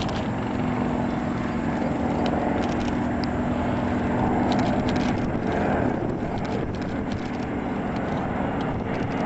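Propeller-driven warbird flying past, its piston engine a steady drone; a low hum in the sound drops away about halfway through.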